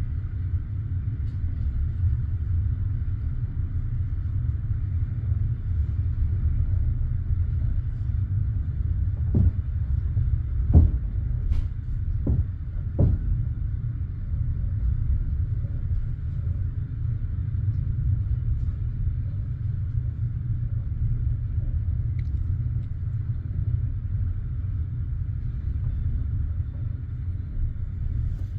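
Steady low rumble in a passenger railway carriage, with four short knocks near the middle, the second one the loudest.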